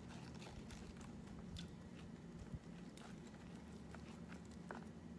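A person quietly chewing a mouthful of poke salad with spring-mix greens, with many small, crisp mouth clicks over a faint steady hum.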